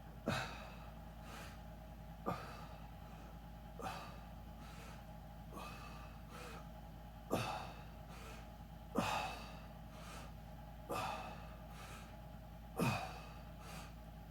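A person breathing hard while exercising: short, sharp breaths about every two seconds, each dropping quickly in pitch.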